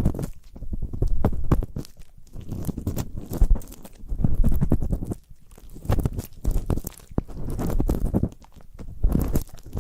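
Close-miked ear-cleaning ASMR sounds: an ear pick scraping and rubbing in crackly, scratchy strokes, coming in bursts of a second or two with short pauses between.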